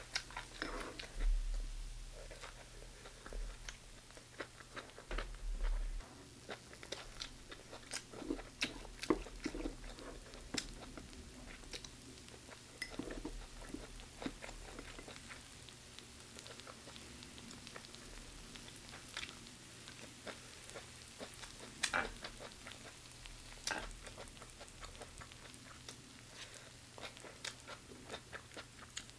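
Close-miked chewing and biting of stir-fried chicken gizzards and vegetables, with crunching and many scattered sharp clicks, densest in the first half. A faint steady low hum runs underneath.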